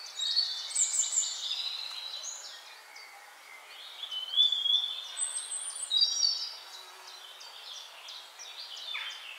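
Birdsong: birds chirping and whistling in short high-pitched phrases over a steady hiss, loudest near the start and again around the middle.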